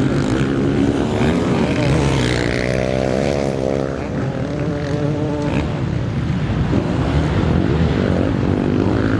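Several motocross bike engines running and revving, their pitch rising and falling as the riders work the throttle. One engine's revs swell and drop again about three seconds in.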